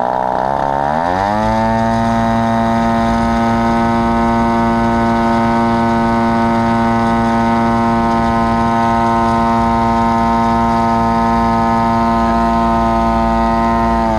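AGM 30cc two-stroke gas engine swinging an 18x6 propeller, revving up over the first second or two, then holding steady at full throttle at about 6,900 RPM. It runs with a broken muffler: just the muffler box with no exhaust pipe.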